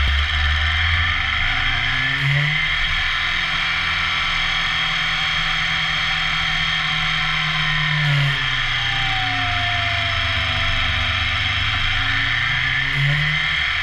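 2014 BMW S1000R's inline-four engine running on the move, its revs rising to peaks about two, eight and thirteen seconds in and falling away between, as it slows into bends and pulls out of them. A steady rush of wind noise on the camera microphone lies under it.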